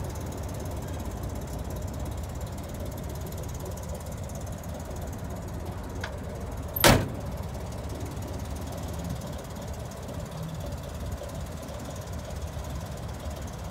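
A 1962 Chevrolet Corvair van's air-cooled flat-six engine idling steadily with a low rumble. One sharp bang stands out about seven seconds in.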